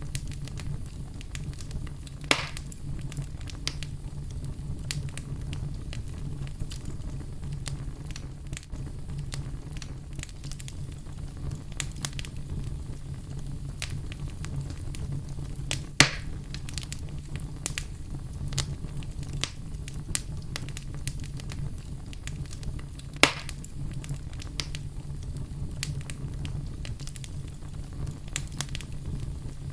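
Wood fire in a fireplace crackling, with dense small snaps over a steady low rumble of flames. Three louder sharp pops stand out, near the start, about halfway and past two-thirds of the way through.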